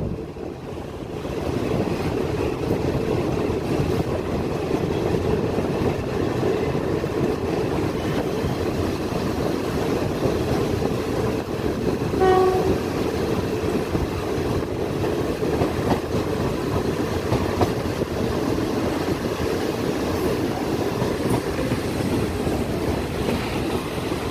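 Train running along the track, heard from on board as a steady rumble of wheels on rails. About halfway through there is one short horn blast.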